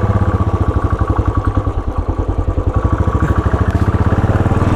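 Royal Enfield Bullet 500's single-cylinder engine running, its firing pulses coming in an even, rapid rhythm.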